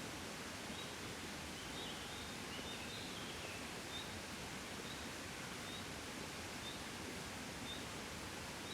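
Gentle wind blowing steadily, a soft even rush. Through it, a short high chirp repeats about once a second, with a brief burst of twittering about two to three seconds in.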